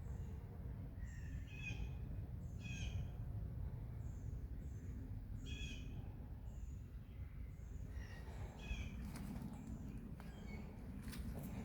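Wild birds calling: short high notes repeated every second or so, mixed with chirps that drop in pitch, over a low steady rumble. A few sharp clicks or cracks come in near the end.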